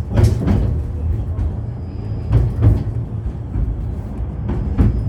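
Moving 71-911EM "Lvyonok-M" low-floor tram, heard inside the passenger cabin: a steady low running rumble with a few sharp knocks and clatters along the way.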